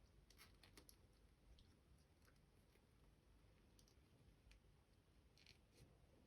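Faint, scattered clicks and light taps of small plastic toy pieces and packaging being handled, over near silence.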